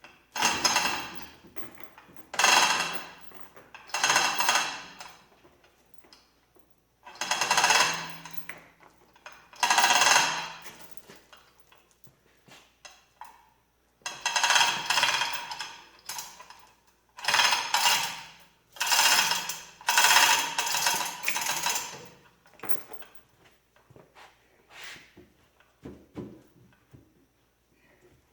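Metal tool noise in repeated bursts, each about a second or two long with short pauses between, with a ringing metallic edge; it thins out to a few fainter knocks near the end.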